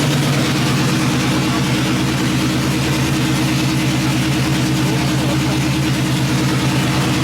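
Chevrolet Silverado engine idling steadily just after new header gaskets and bolts went in. The exhaust leak is fixed, so it runs without the leak's ticking.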